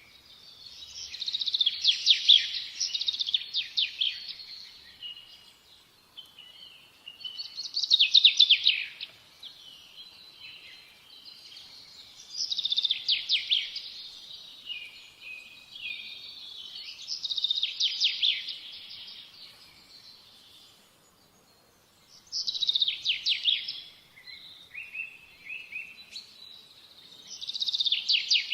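A songbird singing: six phrases of rapid, high trills, each one to three seconds long, coming about every five seconds with short pauses between.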